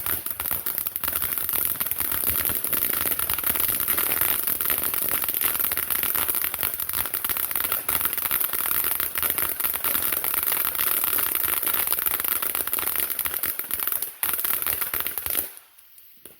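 Consumer fireworks crackling: a dense, continuous run of small pops that dies away shortly before the end.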